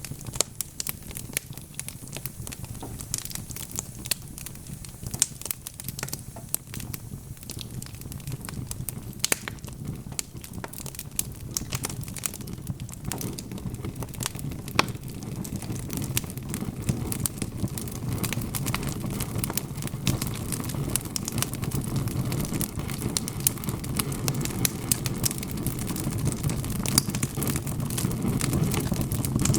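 Wood fire crackling, with many sharp pops and snaps over a low rumble of flame that grows louder in the second half.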